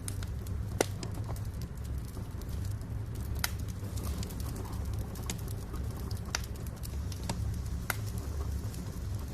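Wood fire in a fireplace crackling: scattered sharp pops and snaps, the loudest about a second in, over a steady low rumble.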